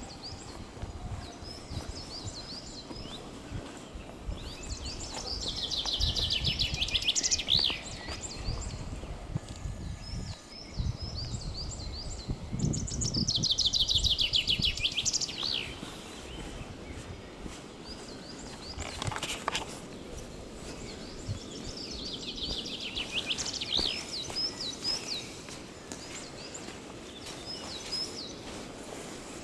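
Songbirds singing outdoors: one bird repeats a fast, trilled song phrase with a quick flourish at the end, roughly every eight to ten seconds, while other chirps come in between. A low, uneven rumble runs underneath.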